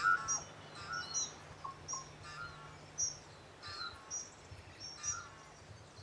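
A songbird calling in short chirping notes, repeated about every half second to a second, each note pairing a higher whistle with a lower one.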